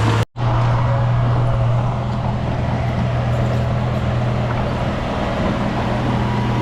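Heavy diesel engine of earthmoving machinery running steadily with a low drone. The sound drops out completely for a split second near the start.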